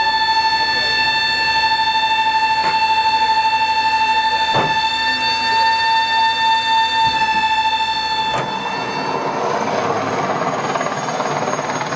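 Helicopter turbine engine whine: a steady high tone with overtones over rotor and engine noise. About eight and a half seconds in, the whine drops away and a rougher rushing noise is left.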